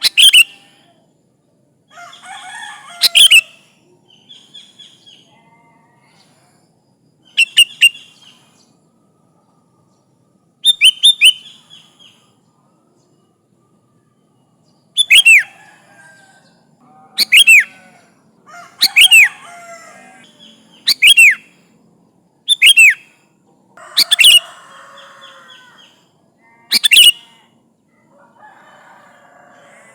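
Sooty-headed bulbul (kutilang) calling to a rival: about a dozen loud, sharp calls, each a quick pair of downward-sweeping notes, at irregular gaps of one to three seconds, with softer chattering between.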